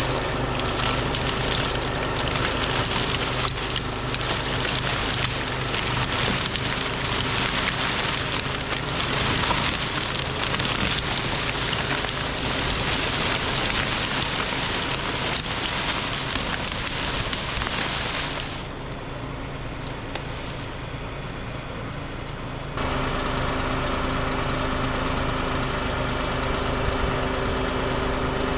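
Diesel engine of heavy land-clearing equipment (backhoe or tractor) running steadily under load, with a dense hiss over it for about the first two-thirds. The sound drops suddenly to a quieter engine about 18 seconds in, then jumps back to a louder, steady engine about 23 seconds in.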